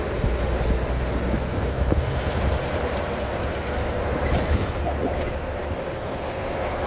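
Steady low rumble of a truck on the move: engine and road noise.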